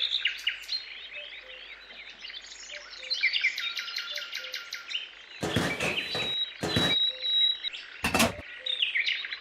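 Small birds chirping and twittering steadily, with three short noisy sounds cutting in over them about two-thirds of the way through.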